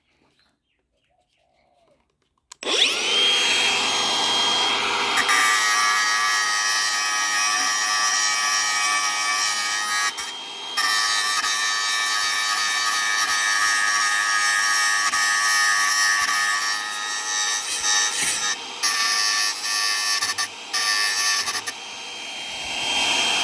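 Angle grinder starting about two and a half seconds in and grinding into a brass fitting: a steady high whine over a harsh grinding noise, with a few brief dips when the disc comes off the metal.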